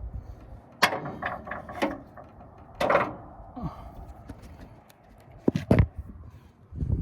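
A series of sharp mechanical clicks, knocks and clatters from hands-on work on parts, irregularly spaced, with the loudest near one second, three seconds and six seconds in.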